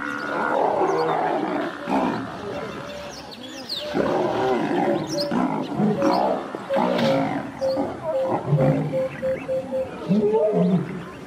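Lions growling repeatedly as they pull down a Cape buffalo, with other animal calls mixed in, one held in short broken pieces for several seconds in the middle.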